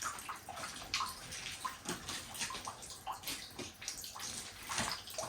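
Water trickling and splashing, with irregular small splashes and drips.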